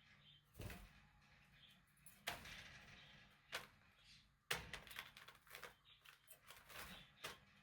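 Near silence in a small room, broken by faint scattered clicks and a short rustle, with a quick run of clicks in the middle.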